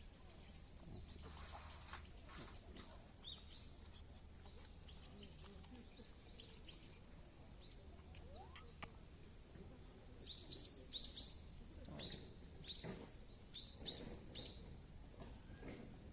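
Small birds chirping: short, quickly falling chirps, scattered at first, then a louder quick run of them about ten seconds in, over a faint outdoor background hiss.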